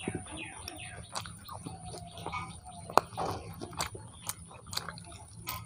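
Close-up chewing and wet mouth sounds of someone eating tandoori chicken by hand, with scattered small clicks and one sharp click about three seconds in.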